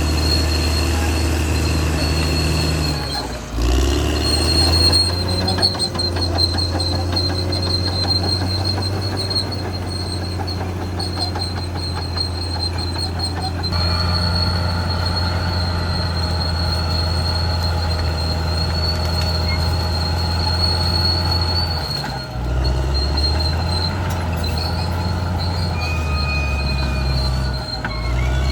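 Caterpillar D6R XL bulldozer working, its diesel engine running steadily under a thin high squeal from the steel tracks. The engine note and squeal shift a few times, with brief dips about a third of the way in and again near the end.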